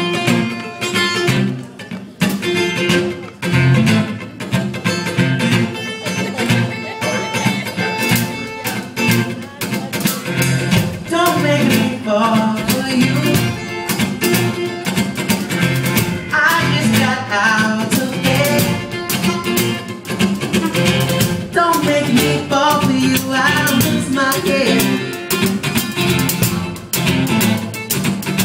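A band playing live, led by a rhythmic plucked and strummed guitar, with a wavering melody line, sung or played, coming in about eleven seconds in.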